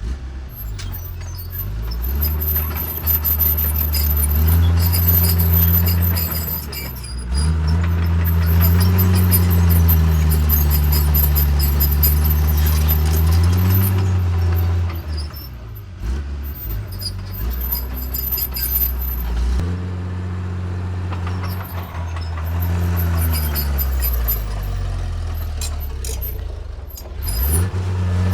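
Diesel engine of a Caterpillar D3C bulldozer working under load as it pushes soil, its pitch rising and falling repeatedly, with brief drops in engine speed about a quarter of the way in, around the middle and near the end.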